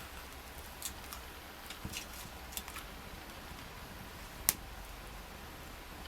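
Wood campfire crackling, with scattered small snaps and one sharp, loud pop about four and a half seconds in.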